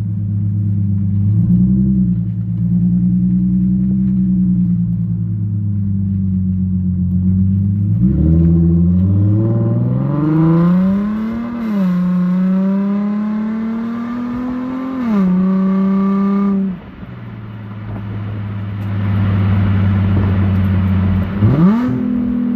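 Straight-piped Nissan VQ35HR 3.5-litre V6 exhaust, muffler and resonators deleted with stock cats, while driving: a steady drone, then the pitch climbs under acceleration with two automatic upshifts dropping it, the level falls sharply as the throttle lifts, and a quick rev rises near the end.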